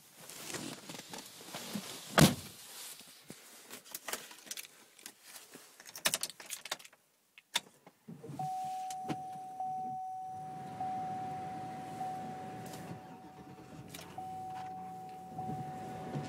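Keys and handling clicks inside a 2005 Cadillac Escalade, with one loud knock about two seconds in. About eight seconds in, its V8 starts from cold and settles into a steady idle, with a steady high warning tone running over it.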